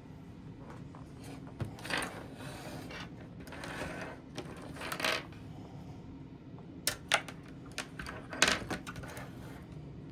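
Small tools, wire and connectors being handled and set down on a workbench: scattered sharp clicks and light knocks with some rustling between them.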